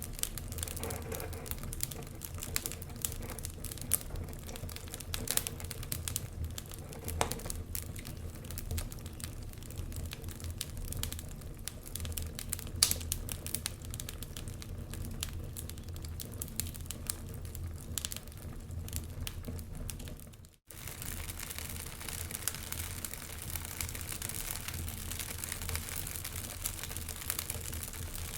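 Wood fire crackling in a fireplace, with dense irregular pops and snaps over a steady low rumble. The sound cuts out for a split second about two-thirds of the way through, then carries on.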